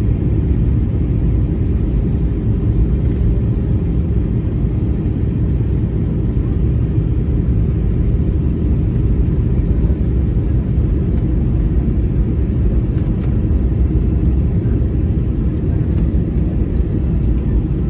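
Steady low rumble of an airliner's engines and airflow inside the cabin, unchanging throughout.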